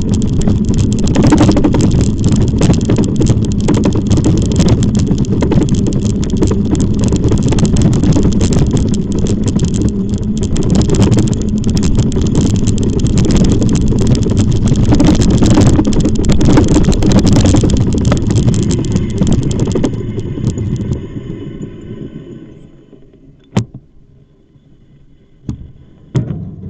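Wind buffeting the microphone and rolling noise while riding an e-bike, a loud steady rumble that dies away about three quarters of the way through as the ride slows. Two short sharp clicks follow near the end.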